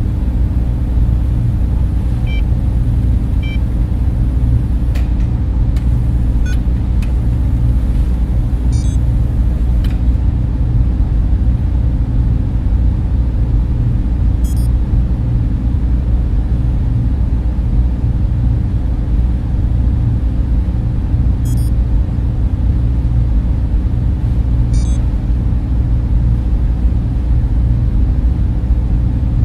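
Server room cooling fans running with a loud, steady whir over a low hum that does not change, with a few faint short high chirps.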